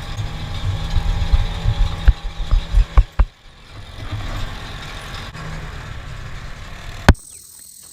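UTV (side-by-side off-road vehicle) engine running on the move, with an uneven low rumble and several sharp knocks in the first three seconds. A steadier, quieter stretch follows, ended by one more sharp knock about seven seconds in.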